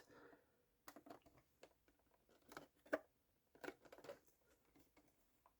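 Near silence with a few faint, short taps and rustles, from a cardboard model box being handled.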